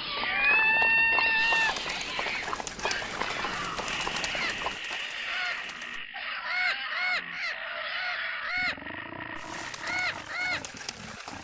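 Animal calls, bird-like: a long, steady pitched call in the first second and a half, then runs of short, arching calls repeated several times a second through the second half.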